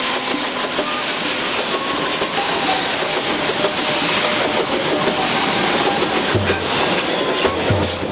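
Train running on the rails up a steep grade: steady rolling noise with faint thin squealing tones from the wheels and a few sharp clicks in the second half.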